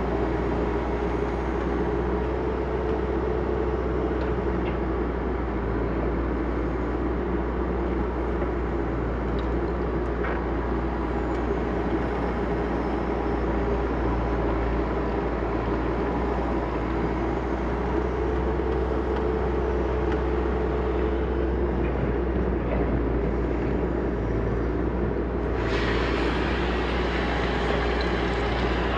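Backhoe loader's diesel engine running steadily while digging. It grows brighter and harsher about three seconds before the end.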